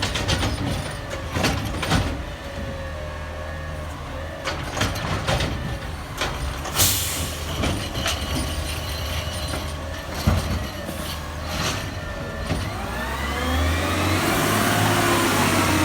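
McNeilus ZR garbage truck on a CCC LET2 chassis at work. Its engine runs under repeated metal clunks and knocks, with a short sharp hiss of released air about seven seconds in. Near the end the engine revs up with a rising whine.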